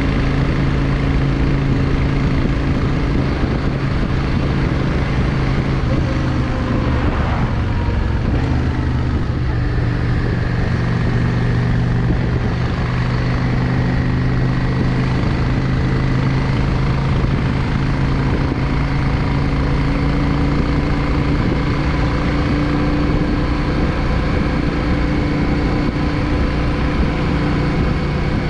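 Yamaha XVS 650 Drag Star's air-cooled V-twin running under way at a steady cruising pace. Its note shifts briefly about seven seconds in, then settles again.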